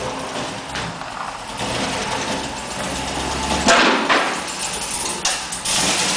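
GM LS2 6.0-litre V8 running, with the knocking noise that the owner suspects is a spun bearing or a collapsed lifter. The sound swells briefly louder about four seconds in.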